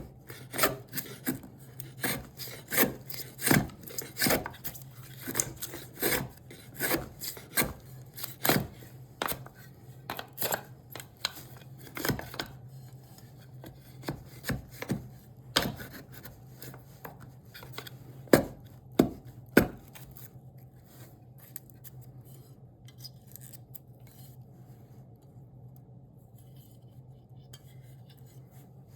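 Repeated sharp strikes of a hand tool on cherry wood, about one to two a second, thinning out and stopping about two-thirds of the way through. A steady low hum runs underneath.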